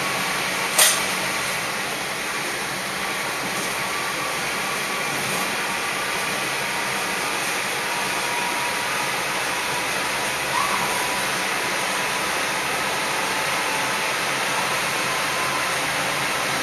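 Running noise inside a moving diesel railcar: a steady sound of wheels on rail and the engine, with a single sharp clack about a second in.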